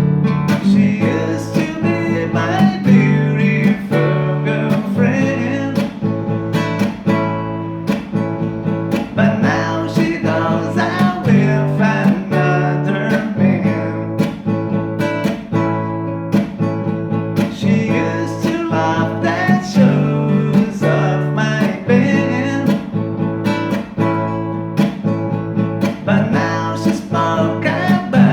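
Music led by acoustic guitar, played in steady plucked and strummed notes.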